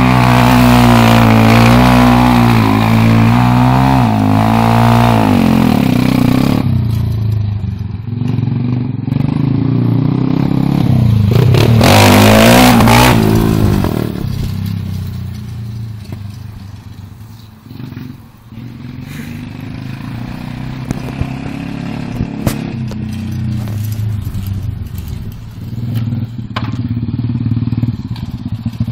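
A 125cc pit bike's single-cylinder four-stroke engine being ridden, its pitch rising and falling with the throttle. It passes loud and close about twelve seconds in, then runs quieter and farther off, with scattered clicks and clatter.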